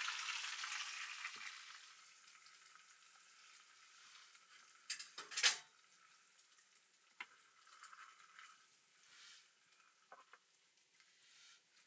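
Food sizzling in a pan. The sizzle dies down over the first two seconds and goes on softly, with a few sharp crackles, the loudest about five seconds in.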